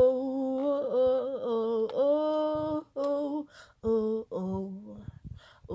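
One voice singing a cappella, with no accompaniment, holding long wordless vowel notes, then a few shorter notes that grow softer near the end.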